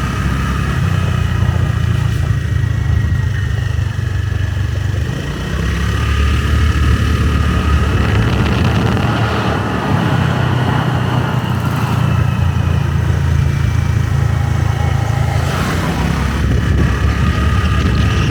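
Motorbike engine running while riding, its note shifting a couple of times as the throttle changes.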